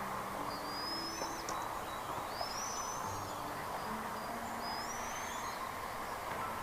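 Bird calling in high, slurred whistled notes, three of them about a second and a half apart, each rising then falling, over a steady outdoor background hiss, with faint short low hooting or cooing tones.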